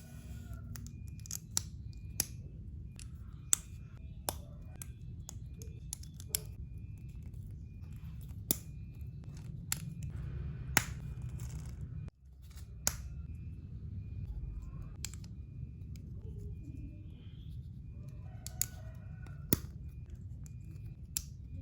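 Plastic building bricks clicking and snapping as they are pressed together, in sharp, irregular clicks every second or so, over a steady low hum.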